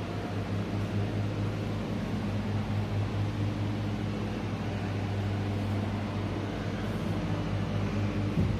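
A steady low mechanical hum with an even wash of noise over it, unchanging throughout.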